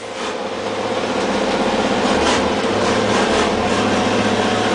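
MAN race truck's diesel engine running steadily, heard from inside the cab under an even hiss. The sound dips at the start and builds back over about a second.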